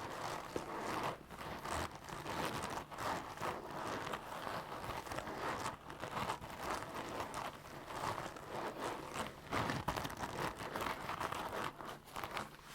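Leather bags and gloves being handled, squeezed and rubbed, giving continuous creaking and rustling with many short crackles.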